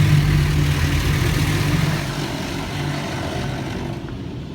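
A steady low mechanical hum with a hiss above it, heard from inside a car, easing off in level about two seconds in and fading further near the end.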